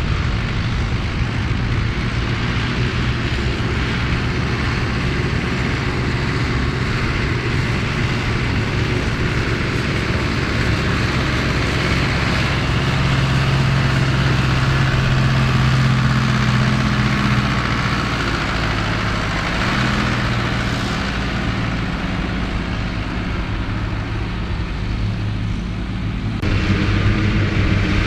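Ford 8630 tractor's diesel engine running steadily under load as it drives a Mengele SH40N forage harvester working silage. The engine note shifts about two-thirds of the way through, and the sound changes abruptly near the end.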